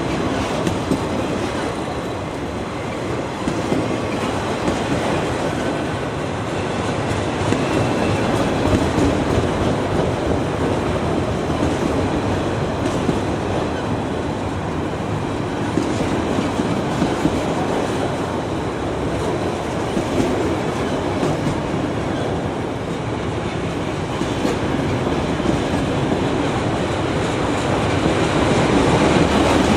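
Railroad cars rolling past on the track: a steady, continuous noise of wheels on rail, with faint clicks scattered through it.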